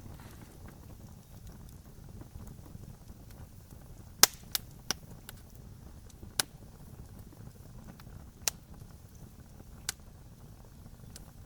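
Wood campfire burning with a low steady rumble, broken by sharp snapping pops: a loud crack about four seconds in, a few smaller ones right after, then single pops every second or two.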